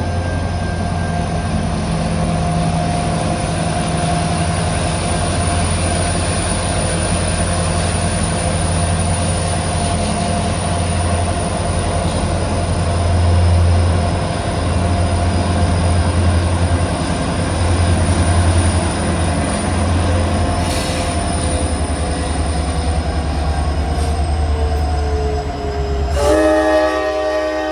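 EMD diesel locomotives running steadily with a deep engine hum, a high whine and a tone slowly falling in pitch. Near the end the train's multi-chime air horn sounds a loud sustained chord.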